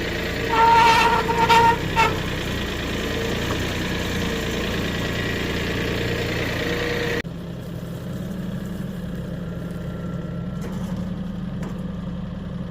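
A steady engine-like hum, as of a motor idling, with a brief two-tone beep about half a second in. The hum changes abruptly about seven seconds in.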